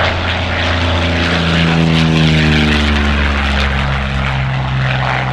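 Curtiss P-40 warbird's V-12 piston engine and propeller passing low overhead, its engine note dropping in pitch as it goes by.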